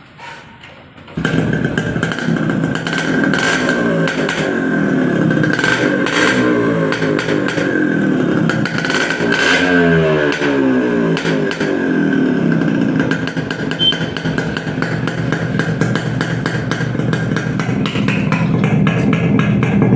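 Yamaha RX100's two-stroke single-cylinder engine running through a brass-core muffler. The sound comes in suddenly about a second in, with the revs blipped up and down a few times, most clearly around the middle.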